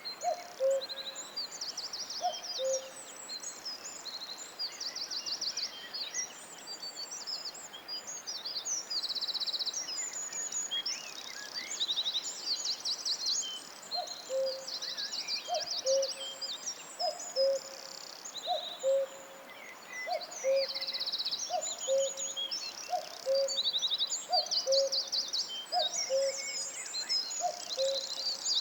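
Forest bird chorus: several songbirds trilling and chirping high and continuously. Under it, a lower two-note hooting call repeats about once a second, briefly at the start and again steadily from about halfway through.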